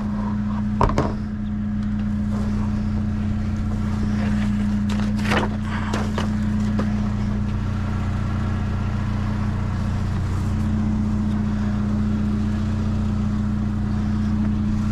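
A vehicle engine idling steadily, with a low, even hum. A couple of brief rustles or knocks come about one second and five seconds in.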